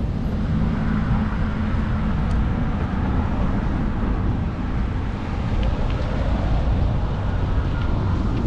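Steady wind rumble on the microphone of a camera riding along on a moving e-bike.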